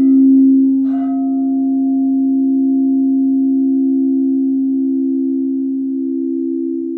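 Singing bowls ringing with two low, steady sustained tones, as in a sound bath; about a second in, a bowl is struck, adding a higher ringing tone that slowly fades.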